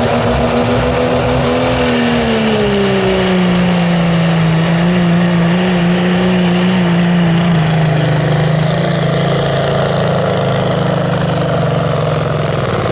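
Diesel pickup truck engine at full throttle pulling a weight-transfer sled. Its pitch sags about two seconds in and then holds lower under the load, and the announcer thinks the turbo has failed.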